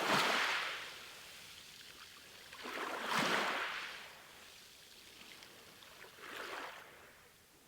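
Small waves washing onto a shore, three swells of rushing water about three seconds apart, the first and second louder than the third.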